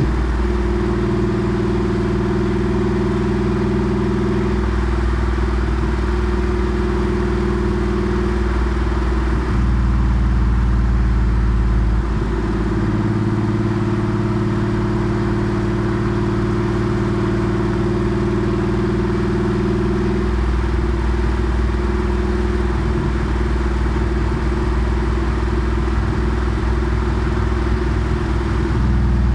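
Air-cooled 3.6-litre flat-six exhaust of a Porsche 964 Carrera 2 through a centre straight muffler, running steadily at low to moderate revs. The engine note holds for several seconds at a time and shifts pitch a few times, around 5, 10, 12 and 20 seconds in, as revs change.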